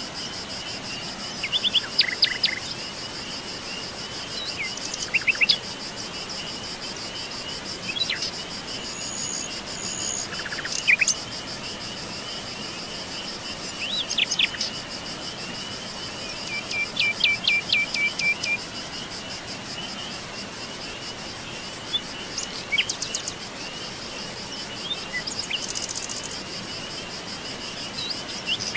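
Several wild birds calling and singing in short, scattered chirps, trills and whistled notes over a steady, high-pitched insect trill.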